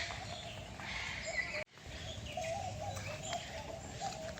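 Several birds chirping and calling over one another, short repeated calls at a few different pitches. The sound cuts out completely for a moment about a second and a half in.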